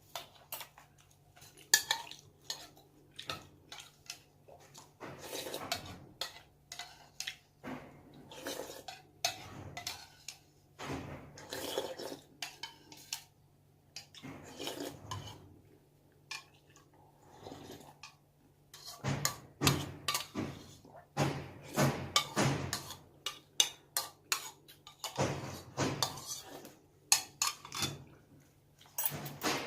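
Chopsticks and spoon clinking and scraping against bowls and dishes while eating, an irregular run of short clicks that grows louder in the second half.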